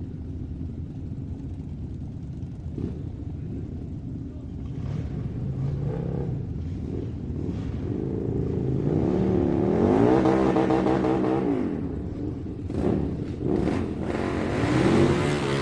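A motor running with a rumble, then revving: its pitch climbs and falls back about ten seconds in, and it holds a steady whine near the end, with a few short clicks in between.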